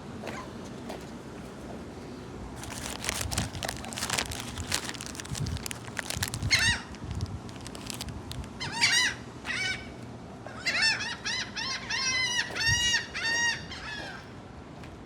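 Seagulls calling: loud repeated sharp calls, sparse at first, then a rapid run of calls a few seconds before the end. Before the calls there are a few seconds of crackling noise.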